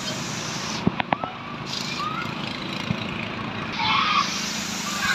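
Steady hiss of falling rain, with a few sharp clicks about a second in.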